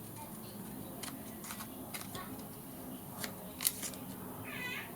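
Scissors snipping and clicking through paper in a few short strokes, the loudest about three and a half seconds in, then a cat gives a short meow near the end.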